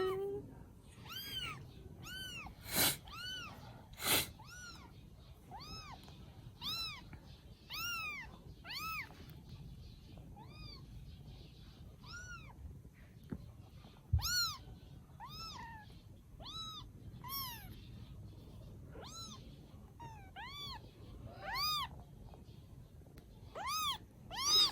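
Baby kittens mewing over and over, high thin calls that each rise and fall in pitch, about one a second. A couple of sharp knocks sound a few seconds in.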